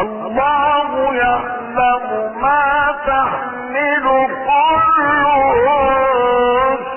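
A man's voice chanting Quran recitation in the melodic mujawwad style, with long held notes that waver and glide through ornamented turns, starting suddenly after a quiet pause.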